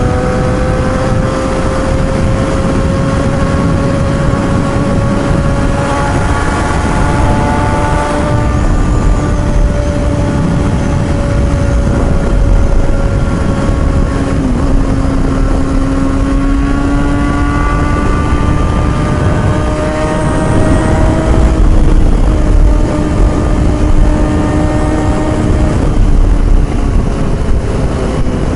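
Kawasaki ZX-6R inline-four engine at high revs, its note climbing slowly over several seconds and stepping down several times as it works through the gears, over a heavy low rumble.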